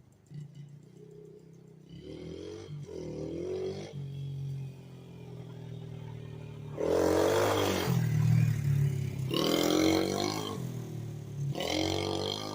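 Pit bike engine running at a steady low idle, revved up in four short surges whose pitch rises and falls, the longest about seven seconds in.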